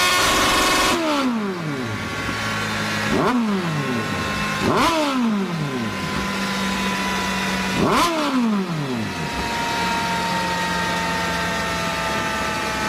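Kawasaki Z900's inline-four engine through an SC-Project aftermarket exhaust, held at high revs, then dropping back about a second in. Three quick throttle blips follow, each rev rising sharply and falling away. It then settles into a steady idle.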